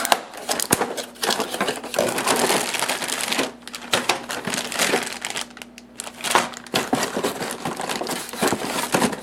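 Packaging crinkling and rustling, with many small clicks and knocks, as a toy train set is taken out of its box.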